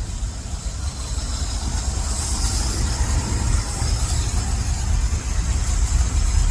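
Carbureted engine of an old Ford F350 dump truck running with a steady low rumble, a little louder toward the end; it has no proper exhaust system.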